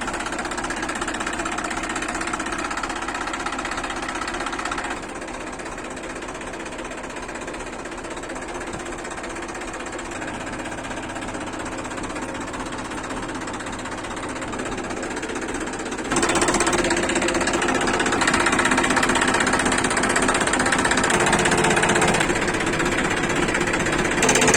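TAFE MF 241 DI tractor's three-cylinder diesel engine running with a steady knocking clatter. It gets a little quieter about five seconds in, then abruptly louder and brighter about sixteen seconds in.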